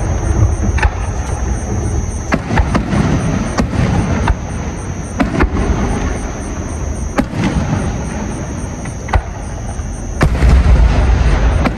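Fireworks display: sharp bangs of shells bursting at irregular intervals over a continuous low rumble of booms, heaviest near the end.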